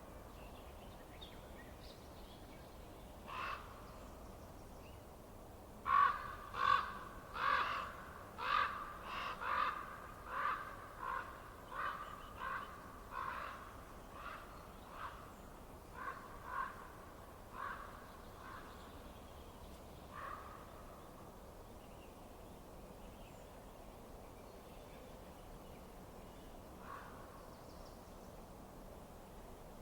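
A bird calling: short calls in a run of about sixteen, starting about six seconds in, close together at first, then growing weaker and further apart. Single calls come a few seconds before the run and twice after it, over a faint steady background.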